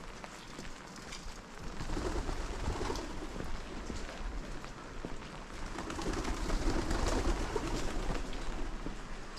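Birds calling, in two stretches of low, warbling calls, over a steady low rumble.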